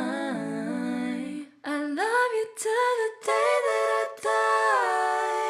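Female voices singing unaccompanied. A lower sung line runs for about a second and a half, then after a short break a higher voice slides up and holds notes, ending on one long sustained note.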